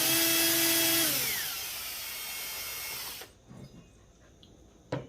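A small power tool spins a Scotch-Brite pad inside a Poulan 5200 chainsaw cylinder, scrubbing aluminum transferred from the old piston off the cylinder wall. About a second in, the motor's steady whine falls in pitch as it winds down. The scrubbing stops abruptly about three seconds in, and a single knock follows near the end.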